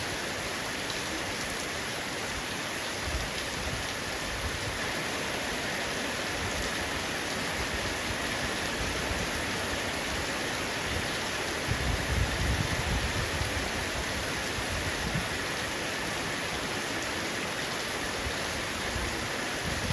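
Heavy rain falling on a roof, a steady dense hiss of drops, with a low rumble swelling briefly about twelve seconds in.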